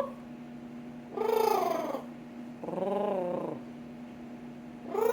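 Pet parrot giving two warbling trills of about a second each, the second lower in pitch and rising then falling.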